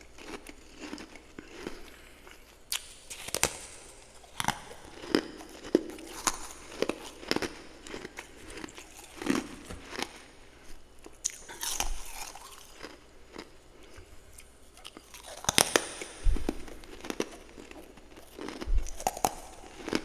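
Close-up mouth sounds of someone biting and chewing freezer frost, with irregular crisp, powdery crunches and louder bites now and then.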